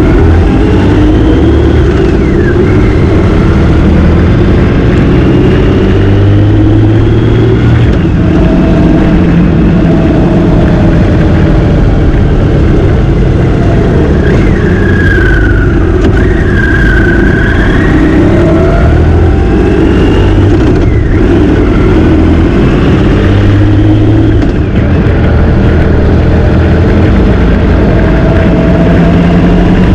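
Motorcycle engine running under way, its pitch climbing and dropping again and again as it revs and changes gear.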